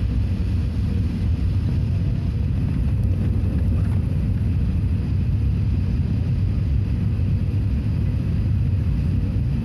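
Steady low rumble of an Airbus A380 in flight, heard inside the passenger cabin: engine drone and airflow noise, even throughout.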